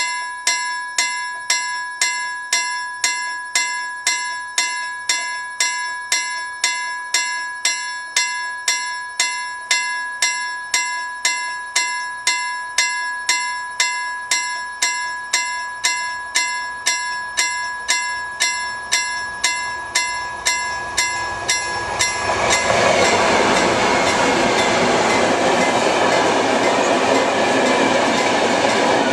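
Level crossing warning bell ringing with evenly spaced strokes, a little under two a second. About 22 seconds in, a freight train hauled by a Dv12 diesel locomotive reaches the crossing, and the loud noise of the locomotive and ore wagons passing close by takes over.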